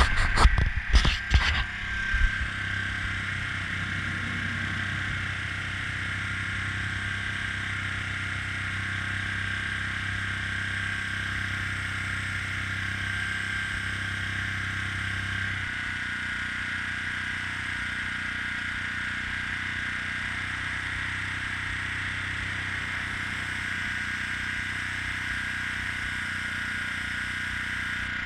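Small air compressor feeding an airbrush, running steadily with a constant whine and low hum. A few sharp knocks come in the first two seconds, and the low hum drops away a little past halfway.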